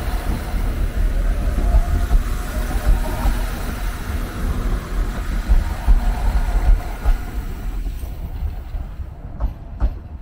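Iarnród Éireann diesel multiple unit moving off along the adjacent track: a steady rumble of engine and wheels that fades about eight seconds in as the train clears, followed by a couple of faint clicks.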